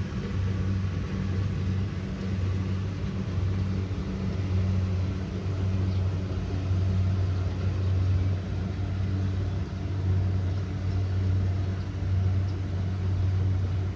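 Kubota DC70 Pro combine harvester running steadily with a low, even engine drone that swells and eases slightly every second or two.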